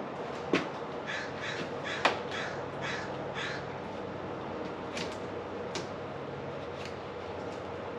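A bird calling about six times in quick succession, joined by two sharp knocks that are the loudest sounds, over a steady background hum.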